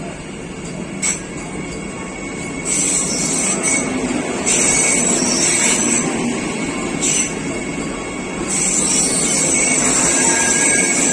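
Vande Bharat electric multiple-unit train rolling slowly through a station: a steady rumble of wheels and carriages, with high-pitched squealing in several stretches that grows louder in the second half.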